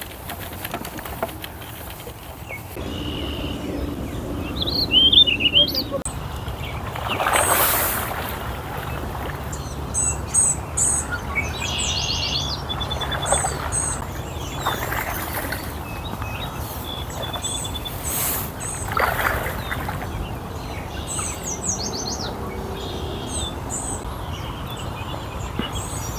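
Small birds chirping and trilling in short calls on and off throughout, over a steady low rumble, with a few brief louder whooshes.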